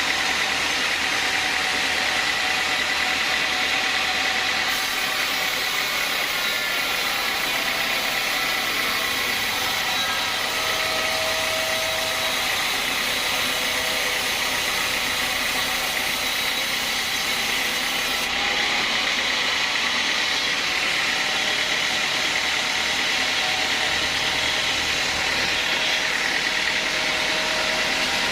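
Sawmill bandsaw running: a steady, loud machine noise with a constant whine, unchanging throughout.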